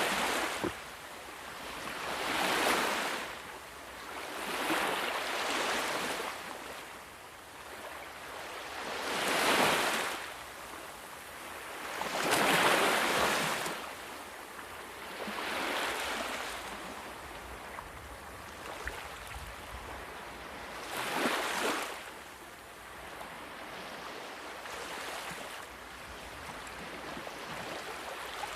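Ocean waves breaking and washing up on shore, one after another every few seconds, each swell of surf rising and fading away.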